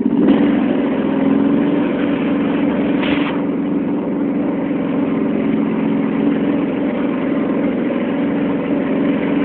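John Deere 325 lawn tractor engine running steadily at working throttle, getting louder right at the start as it is opened up. A brief noise sounds about three seconds in.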